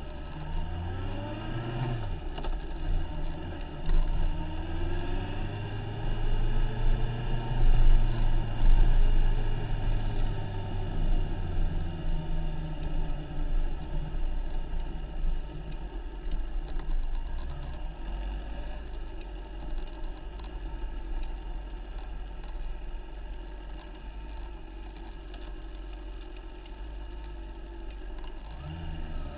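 Motorcycle engine running on the move, its pitch rising and falling with the throttle. It is loudest about eight seconds in, then settles to a lower, steadier run, with a short rise near the end.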